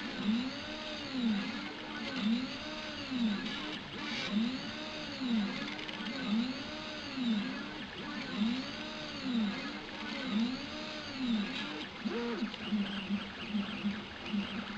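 Stepper motors of a Prusa i3-style 3D printer whining as the axes move back and forth, each move a tone that rises then falls in pitch, about one a second. Near the end the moves turn shorter and quicker.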